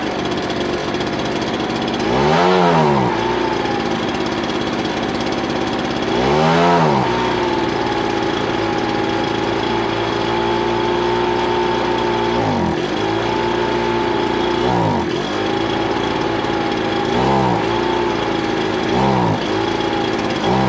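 Ryobi BP42 backpack blower's two-stroke engine running, revved up and back down sharply twice in the first seven seconds, then holding a steady speed with several brief dips in pitch near the end. The carburetor jets are being set by ear, and the engine bogs when the throttle is opened, which he puts down to the low-speed jet setting.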